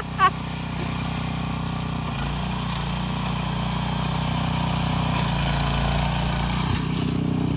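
Harbor Freight Predator single-cylinder engine on a rototiller running steadily, its pitch shifting about two seconds in and again between five and seven seconds in.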